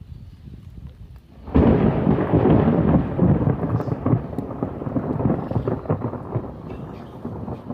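A close thunderclap breaking suddenly about a second and a half in, then rumbling and slowly fading, over the hiss of rain.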